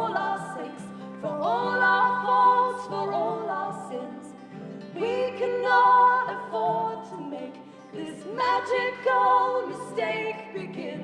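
A live folk song in the middle of a verse: sung vocal harmonies in three long phrases with vibrato, over a steady low accompaniment.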